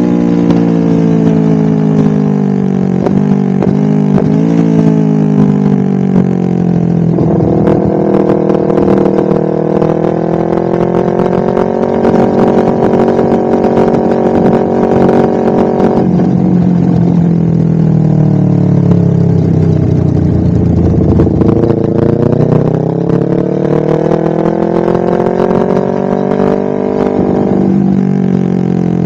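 Honda CBR250RR engine through a DST full-system aftermarket exhaust, ridden through changing revs. The pitch falls over the first few seconds, steps up about 7 s in and holds steady, drops and sinks to a low about two-thirds of the way through, then climbs again with a brief dip near the end.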